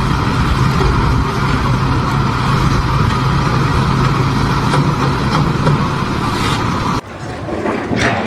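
A motor running steadily at a constant pitch, with a low hum. It cuts off abruptly about seven seconds in.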